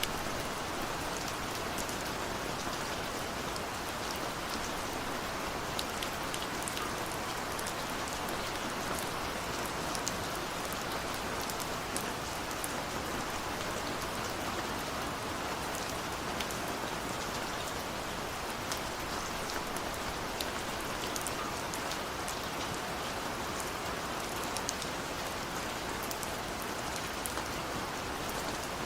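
Steady rain falling, with a constant hiss and many small ticks of single drops hitting a hard surface.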